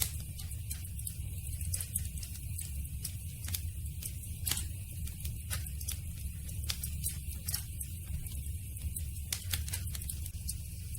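Campfire crackling: frequent, irregular sharp snaps and pops over a steady low rumble of the burning fire.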